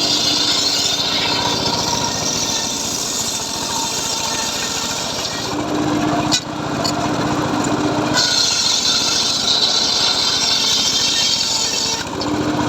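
Homemade circular sawmill cutting teak: a steady running hum with a harsh hiss while the blade is in the wood. The hiss lets up for a couple of seconds about halfway through while the blade runs free, then comes back.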